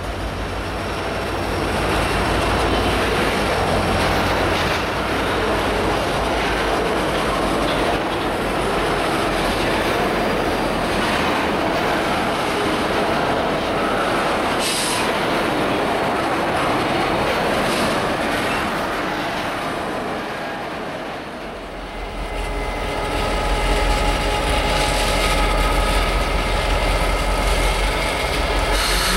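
Freight train of loaded tank cars rolling past, its steel wheels clattering over the rail joints. About 22 seconds in this gives way to diesel locomotives running, a steady engine drone over a low rumble.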